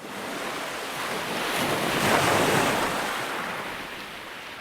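Ocean waves: surf washing in, swelling to a peak about two seconds in and then drawing back.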